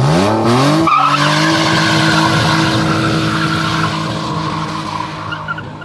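A car engine revs up sharply, then holds at high revs for several seconds while the tyres spin and squeal, as in a burnout or donut at a street takeover.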